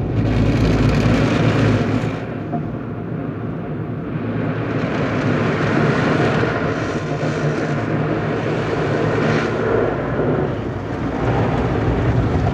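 Automatic car wash machinery working on the car, heard from inside the cabin: a loud, steady rushing noise over a low motor hum. It eases briefly about two seconds in, then builds again.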